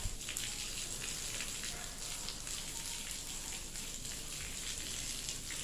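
Volcanic ash rain pattering steadily: a fine, even hiss with many small ticks.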